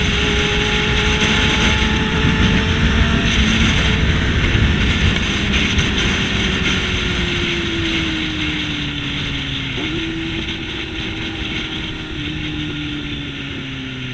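Motorcycle engine with wind rushing over the helmet camera's microphone; the engine note falls steadily as the bike slows, with a brief jump in pitch about ten seconds in.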